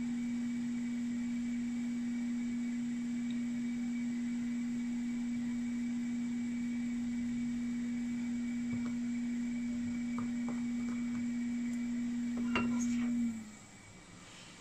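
Digital multimeter's buzzer sounding one continuous low beep while its probes rest across a zener diode, the sign that the diode is shorted. A few faint clicks come about 12 to 13 seconds in, and the beep cuts off suddenly just after.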